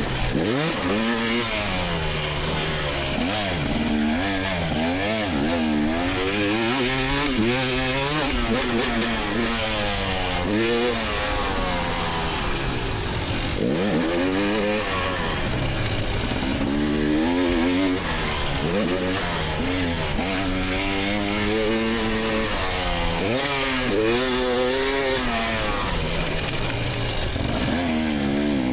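2024 GasGas EX300 single-cylinder two-stroke dirt bike engine revving up and dropping back again and again as the throttle is opened and closed through the course.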